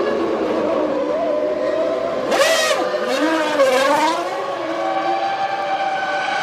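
Formula One cars' V10 engines running at high revs, with a car passing close about two and a half seconds in, its pitch bending down as it goes by, and another passing about a second later.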